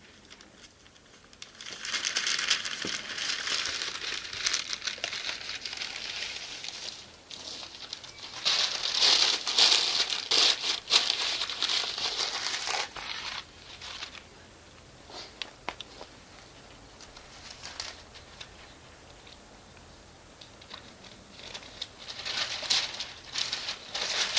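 Bonfire crackling in surges lasting several seconds each, three times, with scattered sharp pops in the quieter stretches between.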